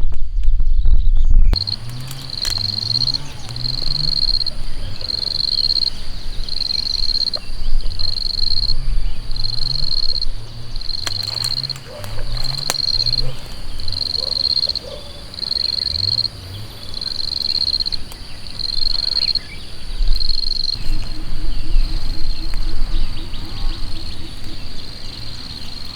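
Insect chirping outdoors: a high, even pulse repeating about once a second. It starts about a second and a half in, after a low rumble cuts off.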